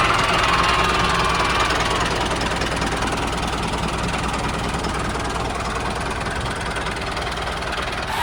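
Engine sound of the DIY mini tractor, idling steadily with a low, even knock.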